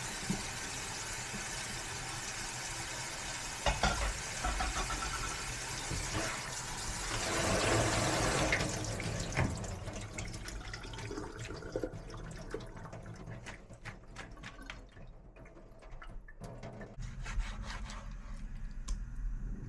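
Water running from a tap into a sink, swelling briefly and then shut off about halfway through. After that come scattered light clicks and knocks.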